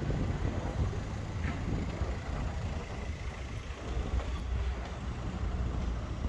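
Steady low rumble of vehicle traffic on a city street.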